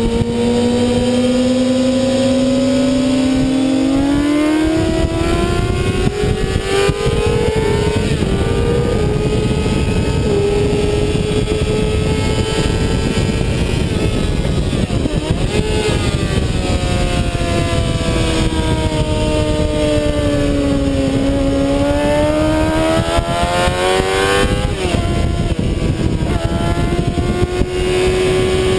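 2007 Kawasaki ZX-6R's inline-four engine running hard at high revs, heard onboard over heavy wind rush. The pitch climbs steadily through the first several seconds, then dips and climbs again a few times as the revs change.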